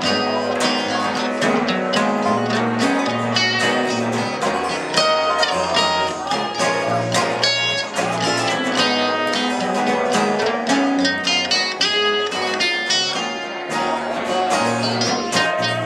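Acoustic guitar and dobro playing an instrumental passage of a song: a run of quick plucked notes over steady low chords, with no singing.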